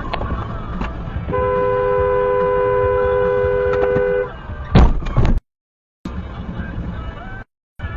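A two-tone car horn held steadily for about three seconds, followed about half a second later by a loud sudden impact. Traffic noise runs underneath, and the sound cuts out twice briefly near the end.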